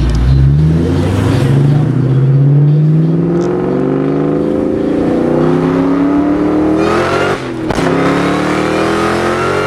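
Supercharged 4.6-litre V8 of a 2003 Mustang SVT Cobra under hard acceleration. The engine note climbs steadily in pitch, drops for a gear shift about seven seconds in, then climbs again.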